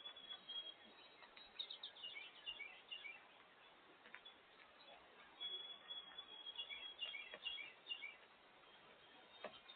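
Small songbirds singing faintly: a few phrases, each a held high note or a quick run of short, high chirps, with a pause between. A single soft tap comes near the end.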